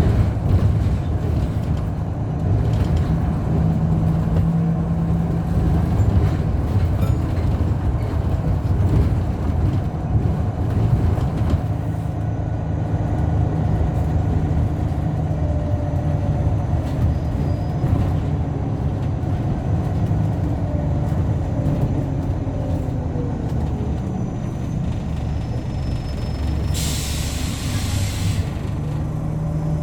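Scania Solar bus running, its engine humming steadily with the note rising and falling through the middle. Near the end comes a short hiss of compressed air, about a second and a half long.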